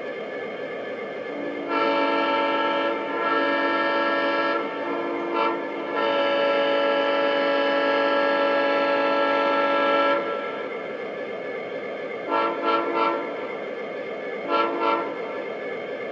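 MTH Premier O-scale SD90MAC model locomotive's sound system, playing an SD60M sound file, blowing a sampled diesel air horn through the model's speaker: a long blast, a short one, a longer blast, then two bursts of quick short toots near the end. Under it runs a steady hiss of the locomotive's running sound.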